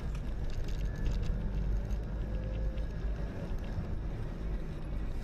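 Steady low rumble of a moving car, with faint ticks above it.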